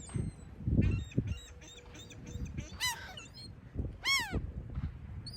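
Gulls calling: a quick run of short calls in the first two seconds, then a few longer calls that rise and fall in pitch. Low rumbling bursts are underneath, loudest about a second in.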